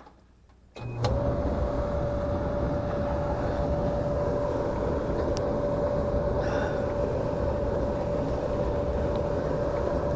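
Electric clothes dryer switching on about a second in with a click, its drum motor and blower coming up to speed with a brief rising whine, then running steadily with a hum.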